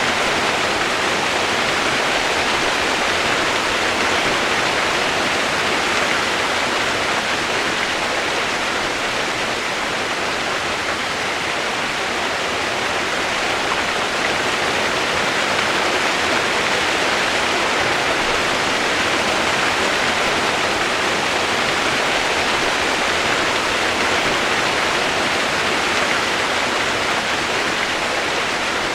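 Steady rush of flowing water, even and unbroken, with no separate splashes or drops standing out.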